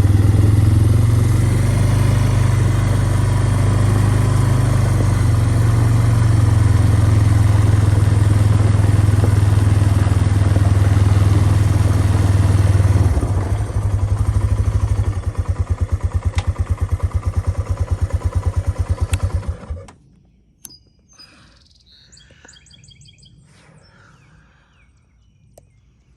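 An engine running steadily, dropping to a slower, chugging idle about 13 seconds in and shutting off about 20 seconds in. A few bird chirps follow in the quiet.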